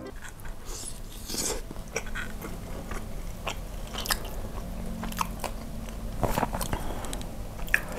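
A person biting and chewing grilled beef rib meat close to a clip-on microphone, with irregular mouth clicks scattered throughout.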